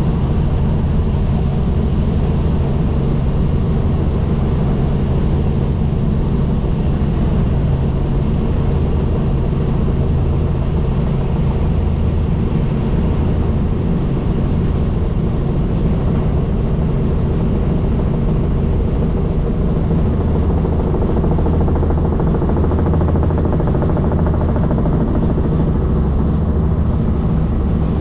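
Helicopter in flight, its rotor and engine giving a loud, steady drone with a constant low hum.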